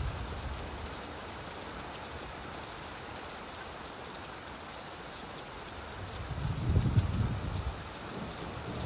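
Steady rainfall, an even hiss of rain on a surface. A low rumble swells about six seconds in and fades out again near the end.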